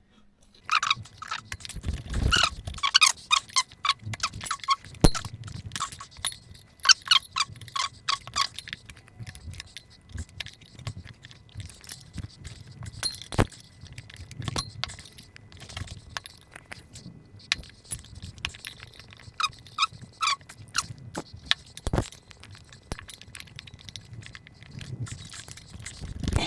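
Two metal tyre levers working a motorcycle tyre's bead over the rim: rubber squeaking against the rim, with repeated clicks and clinks of the levers, in two busy spells and a couple of louder knocks.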